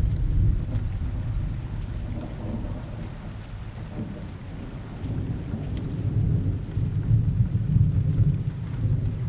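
Steady rain with rolling thunder: a low rumble that eases a few seconds in and swells again in the second half.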